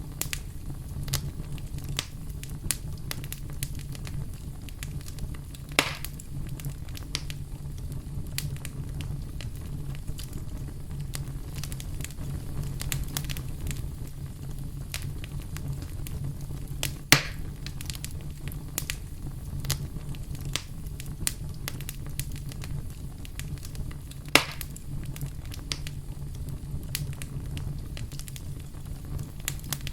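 Campfire burning with a steady low rumble and frequent small crackles, with three louder pops of the wood at about 6, 17 and 24 seconds in.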